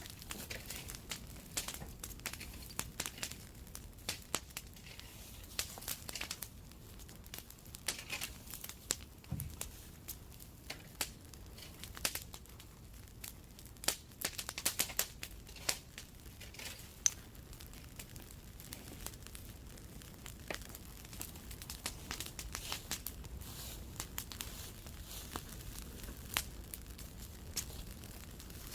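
Bonfire crackling, with many irregular sharp pops and snaps.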